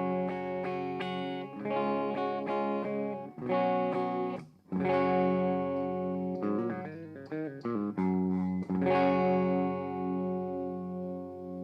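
Electric guitar played through a compact tube-and-class-D power amp set to its EL34 voicing: picked single notes and chords with a brief break about four and a half seconds in. Near the end a chord rings out and fades.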